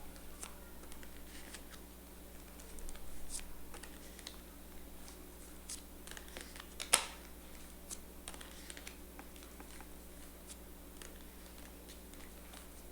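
Tarot cards being handled and laid down on a table: scattered light clicks and taps, with one sharp snap about seven seconds in.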